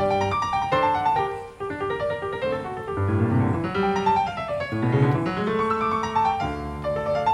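Background piano music: a solo piano playing flowing runs and held chords.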